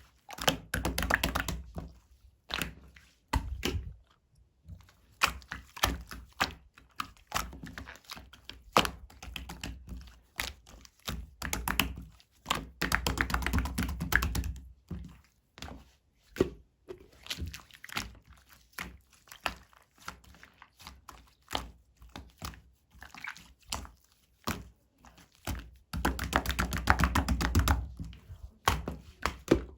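Slime being pressed and poked by hand: a run of irregular sticky clicks and small pops. There are busier, louder stretches of squishing about twelve seconds in and again near the end.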